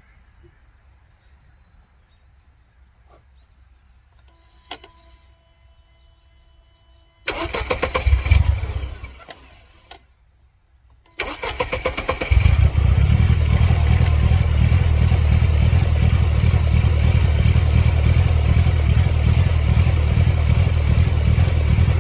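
1999 Mercedes-Benz C230 Kompressor's supercharged four-cylinder engine being started with its mass airflow sensor and idle air control unplugged. After a click and a short electronic tone, the starter cranks and the engine catches briefly, then dies. A second start about 11 seconds in catches and keeps running steadily.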